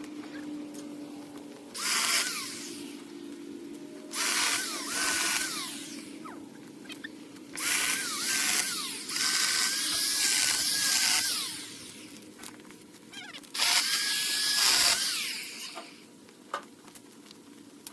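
A handheld electric power tool, run in four bursts of about one to four seconds each. In each burst the motor speeds up, holds its speed and then winds down.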